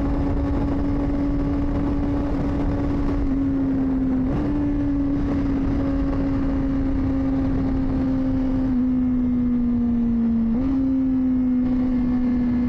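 Honda CBR600RR inline-four engine running at steady high revs through an aftermarket exhaust with the dB killer removed. The pitch sags slowly and steps up sharply twice, about four and ten and a half seconds in.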